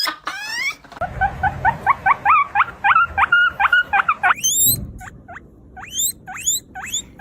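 A small animal squeaking in a fast run of short, rising chirps, then slowing to single rising chirps about once a second.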